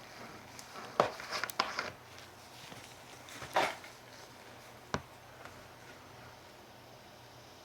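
A few light knocks and short clatters of things being handled and set down: a cluster about a second in, a louder one at about three and a half seconds and a single sharp tap at five seconds.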